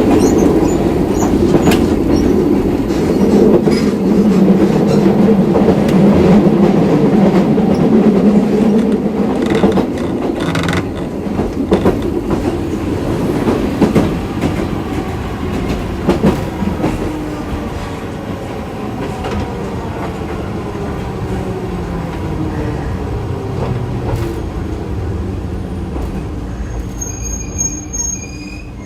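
Hiroshima Electric Railway 3100-series tram heard from inside the car, its nose-suspended (tsuri-kake) traction motors and gears growling. From about halfway through, the whine falls steadily in pitch and grows quieter as the tram slows, with clicks over rail joints. A high steady squeal comes near the end.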